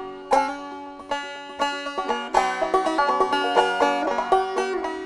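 Solo plucked string instrument playing the instrumental intro of a country song. It starts with a few spaced notes left to ring, then settles into quicker, steady picking a little over two seconds in.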